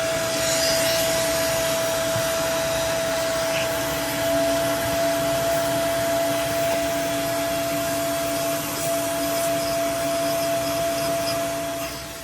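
A motor-driven cleaning tool running steadily: a loud rushing hiss with a steady motor whine, and a second, lower hum joining from about four seconds in. The tool is being used to clean around a rusted intake-manifold bolt.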